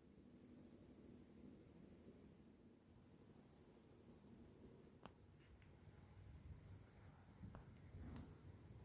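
Faint, high-pitched steady trilling of insects, with a stretch of fast regular pulses a few seconds in. A few faint clicks come later.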